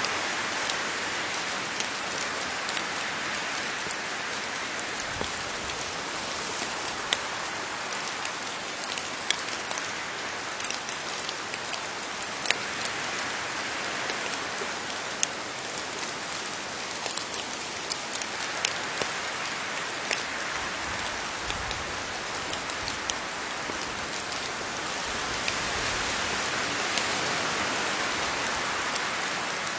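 Steady rain falling on leaves, a constant patter with many separate drops ticking sharply on top.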